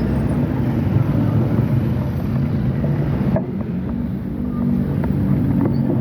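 Wind rumbling and buffeting on the microphone of a moving bike, over road noise.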